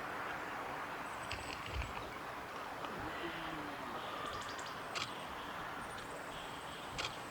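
Eastern crowned warbler singing: three short, high song phrases, a few seconds apart, over a steady background hiss.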